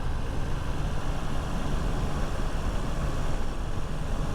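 Motorcycle being ridden at a steady cruising speed: the engine runs evenly under a steady rush of wind noise on the microphone.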